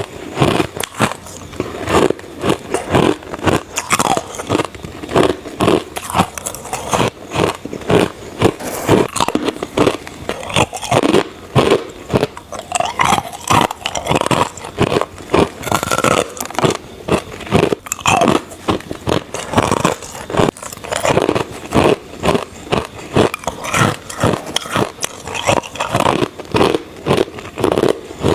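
Close-up crunching of crushed ice being bitten and chewed: a dense, continuous run of sharp cracks and crackles, several a second.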